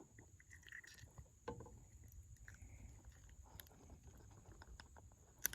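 Near silence with faint handling noises: small clicks and rustles as a jig hook is worked free of a small bass's mouth, and one sharper click near the end.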